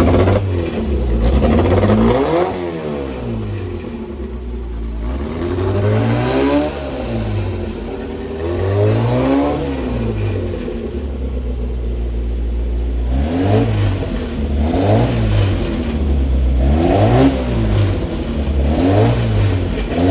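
Car engine being revved again and again, its pitch rising and falling with each blip of the throttle. The revs come every two or three seconds at first, then quicker, about one a second, in the second half.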